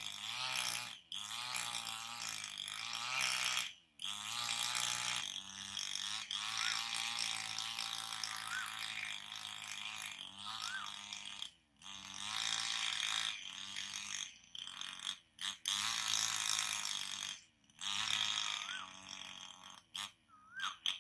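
A perched songbird calling: a long, varied run of harsh rasping chatter mixed with short rising-and-falling whistled notes, broken every few seconds by abrupt pauses.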